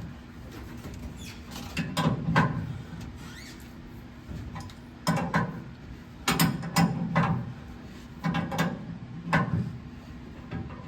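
Short bursts of mechanical ratcheting and creaking, in irregular groups, from a hand tool turning the pinion-angle adjuster on the truck's rear suspension.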